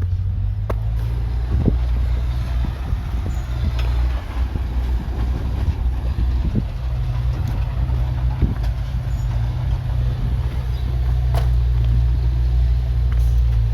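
Heavy earthmoving machinery's diesel engine running steadily with a low drone, with a few short knocks spread through it.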